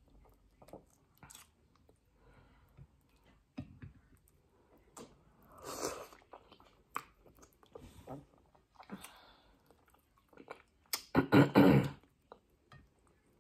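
Close-up mouth sounds of someone chewing beef tripe and fufu: soft wet smacks and clicks, with a louder quick run of sharp smacks near the end.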